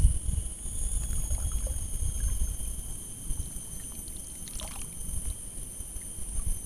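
Strong wind buffeting the microphone as a gusty low rumble, with steady high-pitched tones behind it and a brief scratchy rustle about four and a half seconds in.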